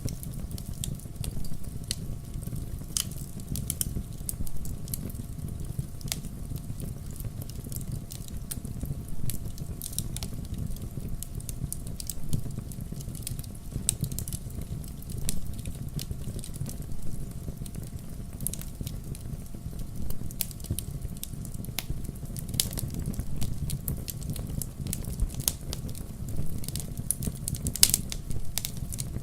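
Wood fire burning in a fireplace: a steady low rumble of the flames with irregular sharp crackles and pops scattered throughout, a few louder pops near the end.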